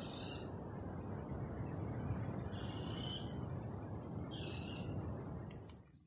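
A bird calling three times, about two seconds apart, each a short high-pitched chirping call, over steady background forest noise.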